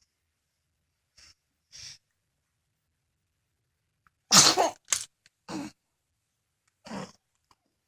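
A baby making a series of short, breathy noises with pauses between them; the loudest is a sharp double burst a little past halfway.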